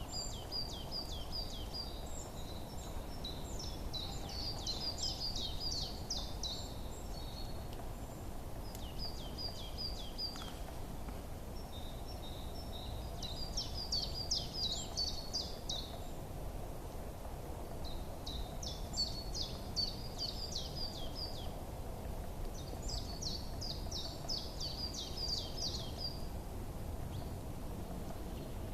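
A small songbird singing rapid, high twittering phrases, each a few seconds long, repeated every few seconds. Under it runs a steady low background noise.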